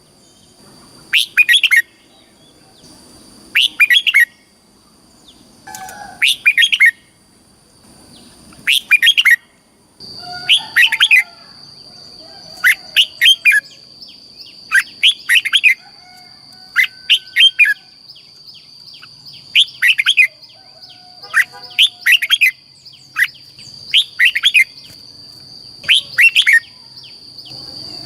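Red-whiskered bulbul singing: short, bright, whistled phrases repeated every one to two seconds. A steady high-pitched whine runs underneath and grows stronger about ten seconds in.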